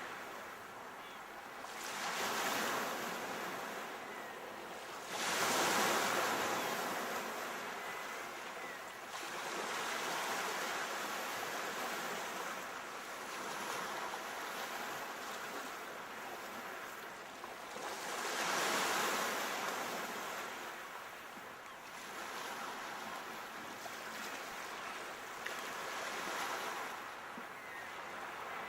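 Sea waves breaking and washing onto the shore, a steady hiss of surf that swells up as each wave comes in, with the biggest breakers about 2, 6 and 19 seconds in.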